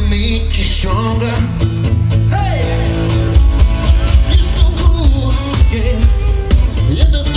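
Live rock band playing: electric guitar, bass guitar and drums with a steady beat, and a voice or guitar line bending in pitch over the top.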